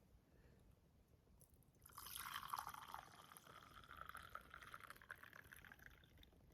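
Liquid being poured into a container for about four seconds, starting about two seconds in, the pitch of the filling rising slightly as it fills.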